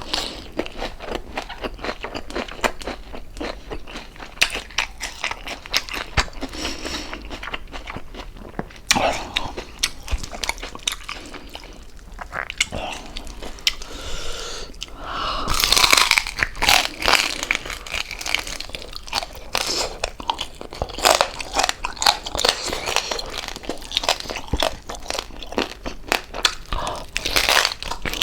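Close-up eating sounds: crispy deep-fried pork jowl skin crackling and crunching between the teeth, with continuous chewing and mouth noises. The loudest bursts of crunching come about halfway through and again near the end.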